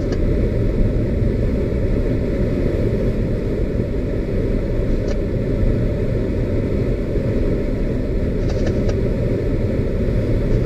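Steady low rumble of a vehicle, with a few faint ticks about five seconds in and again near the end.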